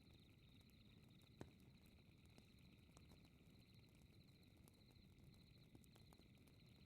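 Faint fireplace crackle: a low steady rumble with scattered sharp pops, one louder pop about a second and a half in, under a constant fast pulsing chirp of night insects.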